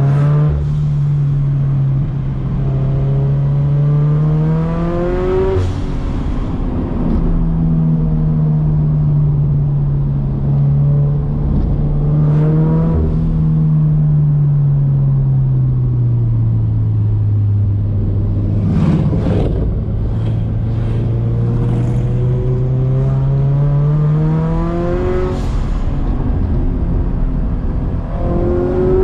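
Turbocharged Scion FR-S flat-four engine driven hard through the gears, heard from the car. The revs climb and fall, with gear changes about five seconds in and again near the end, and a few brief crackles in between.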